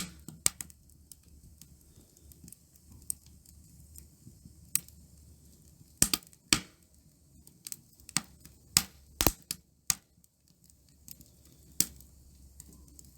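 Wood fire crackling in a titanium camp stove: scattered sharp pops and snaps at irregular intervals, thickest around six seconds in and again from about eight to nine and a half seconds in.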